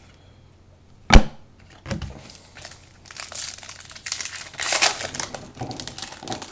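A single sharp knock about a second in, then a trading-card pack's wrapper being torn open and crinkled, a dense run of crackling rustle that builds from about two seconds on.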